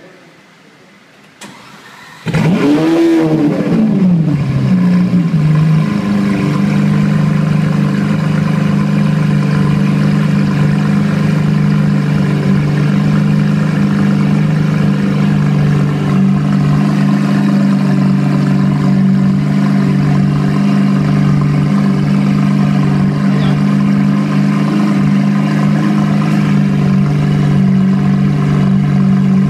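Lamborghini Aventador LP700's 6.5-litre V12, breathing through a titanium exhaust system, starting up after a faint click about a second and a half in: it fires with a sharp rise in revs that falls back within a few seconds, then settles into a steady fast idle.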